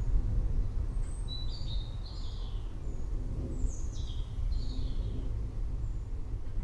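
Deep, steady rumble of rolling thunder, with a bird chirping in two short bouts, about a second and a half in and again about four seconds in.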